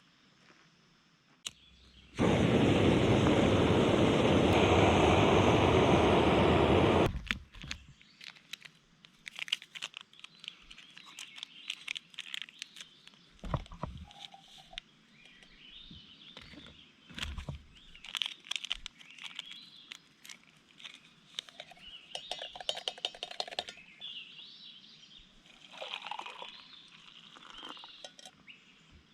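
A loud, even rush of noise lasting about five seconds, cutting in and out sharply. After it come small birds chirping, with scattered light clicks and crackles.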